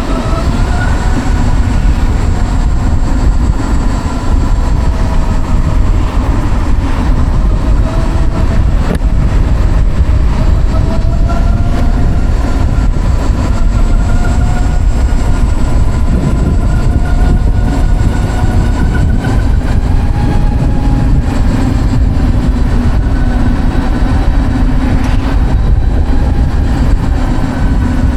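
Savic C3 electric motorcycle's AC permanent-magnet motor whining as it rides, the whine rising sharply in pitch with acceleration at the start, then holding and wavering with speed. Heavy wind and road rumble on the microphone lie under it.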